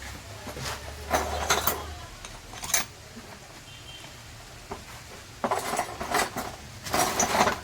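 Metal tools and engine parts clinking and clattering as they are handled, in short clusters: about a second in, once near three seconds, and again more busily toward the end.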